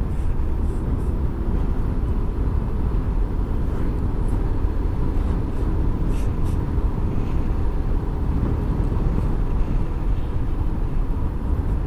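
Motorcycle engine running steadily under wind noise on the microphone while riding along a road.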